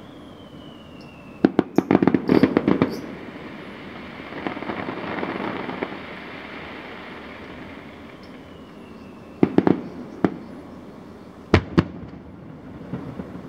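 Aerial fireworks shells bursting: a quick cluster of bangs about a second and a half in, a softer hiss a few seconds later, more bangs near ten seconds and two sharp reports near the end. A whistle falling in pitch comes just before each of the first two volleys.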